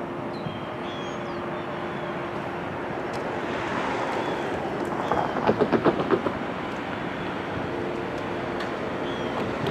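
Norfolk Southern intermodal container train, led by a GE Dash 9-44CW diesel locomotive, passing with a steady rumble; about halfway through, a quick run of clickety-clack as wheels cross rail joints, the loudest part.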